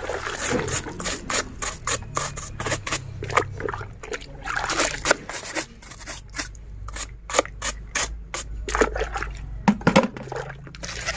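A brush scrubbing a plastic toy in soapy water: quick, repeated scraping strokes with water trickling and splashing.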